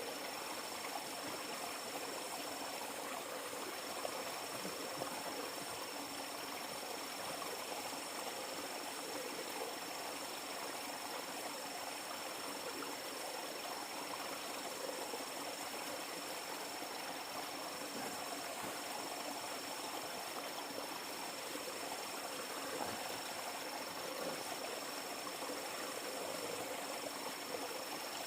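River water flowing steadily, with a thin high steady tone over it.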